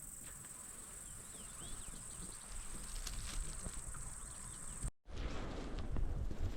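Insects chirring in a steady high-pitched drone, with a few faint bird chirps. About five seconds in the sound cuts off abruptly and gives way to wind rumbling on the microphone.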